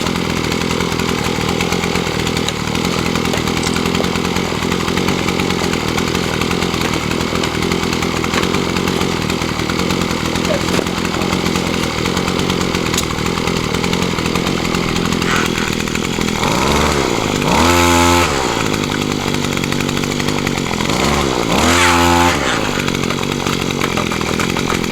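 Gas-powered post hole auger engine running steadily while boring into clay, revved up twice near the end, the pitch rising and falling each time.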